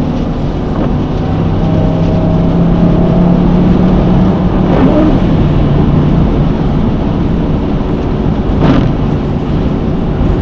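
Car driving at highway speed, heard from inside the cabin: steady engine and tyre road noise, with the engine note rising from about a second in and easing off about five seconds in.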